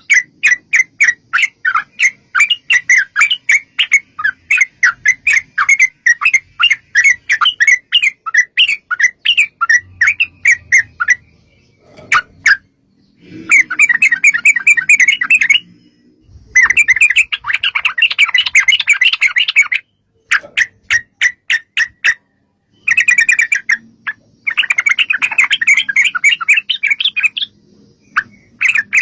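Yellow-vented bulbul (trucuk) song: a quick series of clear repeated chirps, about four a second, for roughly the first eleven seconds. After a brief pause come long, fast chattering trills in bursts that stop abruptly.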